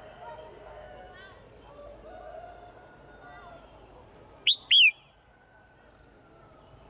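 Swallows twittering softly, with two loud, sharp chirps in quick succession about two-thirds of the way through.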